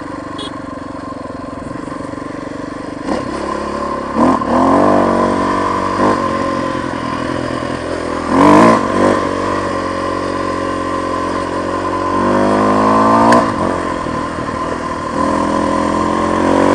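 Motorcycle engine running under way, revving up through the gears twice, with a short clatter about halfway through.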